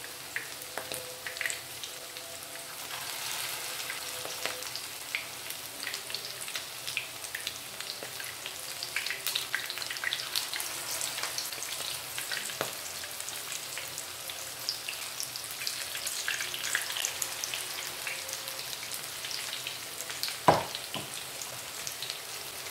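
Batter-coated prawns frying in hot coconut oil in a pan: a steady sizzle with constant crackling and popping as more pieces go into the oil. One sharp knock near the end.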